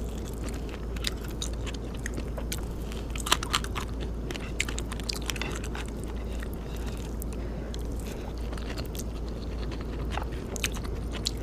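Close-miked eating: a person biting and chewing food, with many short irregular crunches and mouth clicks.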